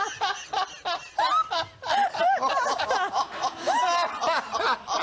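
People laughing: several voices chuckling and snickering in short, choppy bursts.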